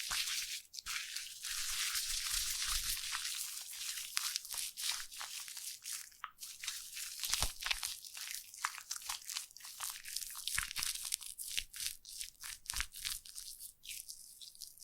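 Foam fizzing and crackling close to the microphone: a high hiss full of tiny irregular pops, thinning in the second half into more separate crackles.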